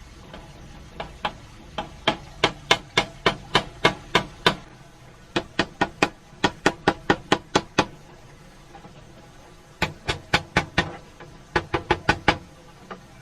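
Hammering: four runs of sharp, quick blows, about four strikes a second, with short pauses between the runs.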